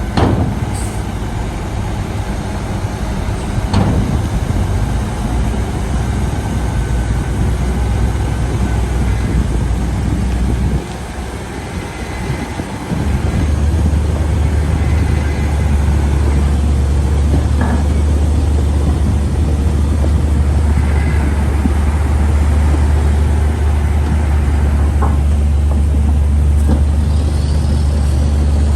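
Heavy diesel engine of earthmoving machinery running steadily, easing off briefly about eleven seconds in, then working harder with a deep drone from about thirteen seconds on. A few short knocks come through over it.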